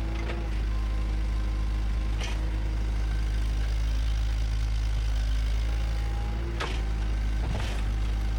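Bulldozer's diesel engine running steadily with a heavy low rumble, with a few short sharp metallic sounds from the machine, one near the start, one about two seconds in and two near the end.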